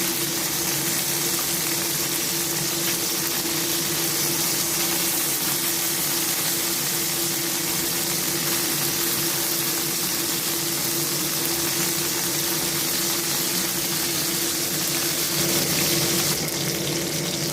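Cornstarch-coated chicken pieces sizzling steadily in hot cooking oil in a frying pan, with a steady low hum underneath. A few light clicks come in near the end.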